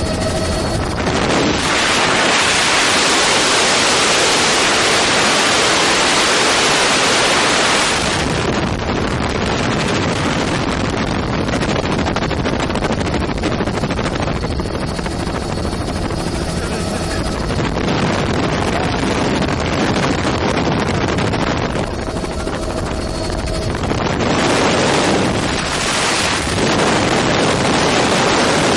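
Helicopter in flight, heard from inside with a steady engine and rotor drone under a heavy rush of wind on the microphone. The wind rush swells for several seconds near the start and again near the end.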